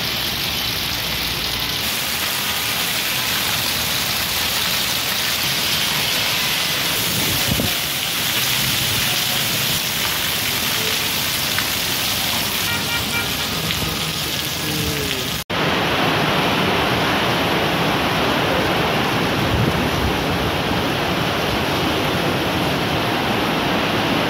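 Heavy monsoon rain pouring steadily. About two-thirds of the way through, the sound cuts off abruptly and resumes as louder rain.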